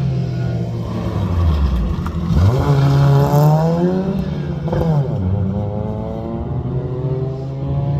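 Rally car engine accelerating hard, its pitch dropping and rising again with gear changes: a dip early on, a quick drop and climb about halfway, then a long steady climb.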